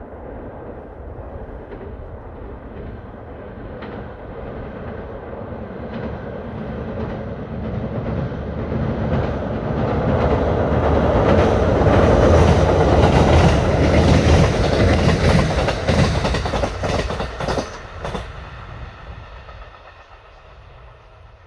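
Kintetsu electric train crossing a railway bridge. The rumble grows as it approaches and is loudest about halfway through, when a run of clacks from the wheels over the rail joints comes through. It then fades as the train moves away.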